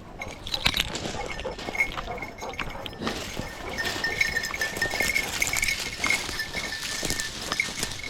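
Hunting dogs moving about close by, with scattered rustles and clicks.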